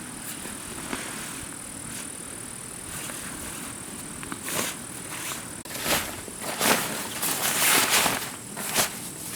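A steady high-pitched hiss, then from about six seconds in a run of loud rustling footsteps through leaf litter and undergrowth.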